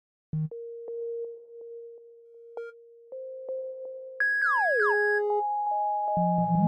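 Ableton Meld synthesizer playing randomly generated notes from the Bouncy Notes device in F minor pentatonic: held tones joined by portamento slides between pitches. A steep downward slide comes about four seconds in, and several notes overlap near the end.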